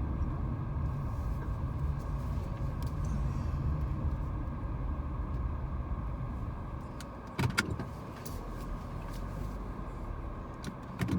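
Car being driven, heard from inside the cabin: a steady low rumble of engine and road noise. Two sharp clicks come close together about two-thirds of the way through, and another comes near the end.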